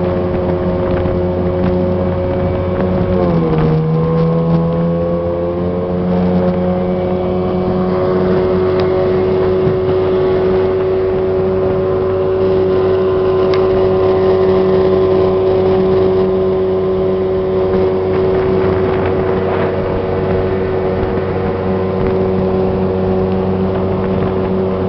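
Motorboat engine running under way; its note drops about three seconds in, then holds steady.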